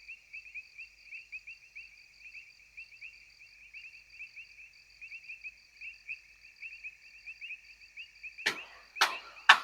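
Insects trilling in a steady, fast-pulsing high chorus, with a second, lower trill joining about six seconds in. Near the end come a few sharp knocks.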